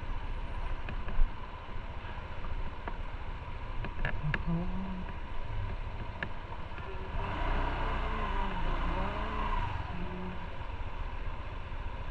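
Motorcycle on the move: the engine running under a steady low rumble of wind on the microphone, with a few light clicks. The noise swells for a few seconds about seven seconds in, with a wavering engine note.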